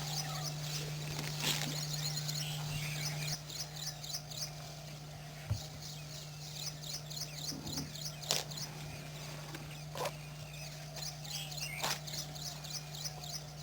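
Bird calling in repeated rapid runs of short, high-pitched chirps, with pauses between the runs, over a steady low hum and a few sharp clicks.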